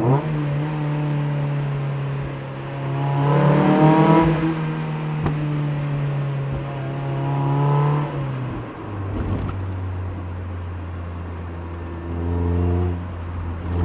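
NB Mazda Miata's four-cylinder engine and exhaust pulling through city streets, its pitch rising under acceleration twice in the first eight seconds, then settling to a lower steady note after about nine seconds and climbing again near the end.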